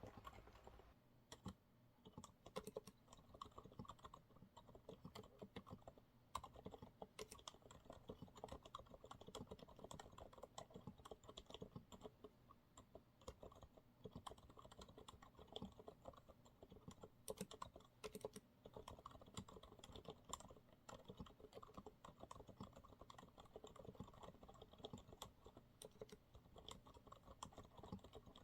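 Continuous quiet typing on a Monsgeek MG108W mechanical keyboard with TTC silent brown switches: dense, irregular, muffled keystrokes.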